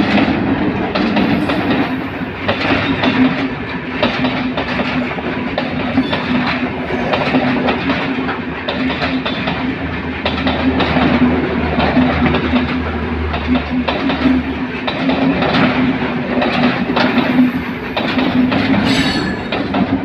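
A train running on rails, its wheels clacking over the rail joints above a steady drone, with a brief high-pitched squeal near the end.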